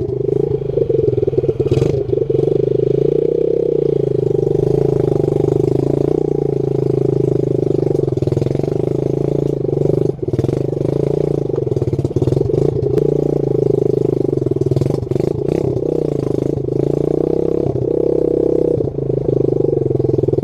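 Small dirt bike engine running steadily under throttle, its pitch wavering only slightly, as when ridden along at a constant pace.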